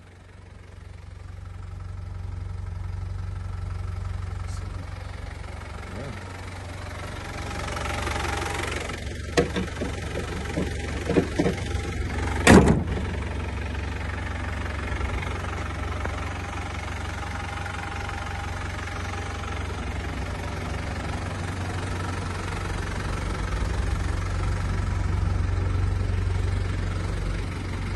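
Land Rover 90's 200Tdi four-cylinder turbo diesel idling evenly, freshly cold-started. A series of knocks comes from about nine to thirteen seconds in, the loudest a single sharp knock.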